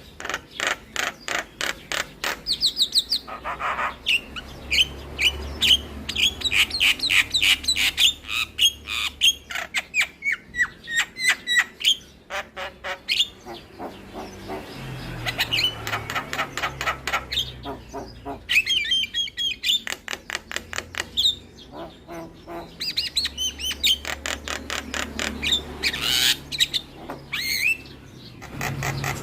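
Javan myna (jalak kebo) song: long rapid runs of short, sharp notes, many a second, in phrases broken by brief pauses, the varied "full isian" repertoire used as lure song to set other mynas singing.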